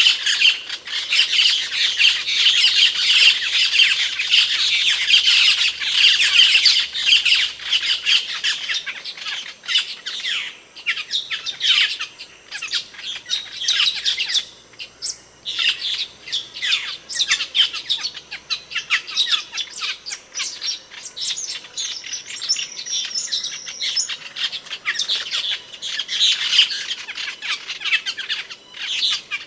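Asian glossy starling calling: a rapid stream of short, sharp, high notes. The calls are densest in the first several seconds and again near the end, and thin out in between.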